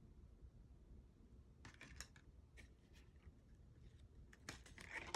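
Trading cards being handled and flipped through: faint scattered clicks and rustles of card stock, coming more often near the end.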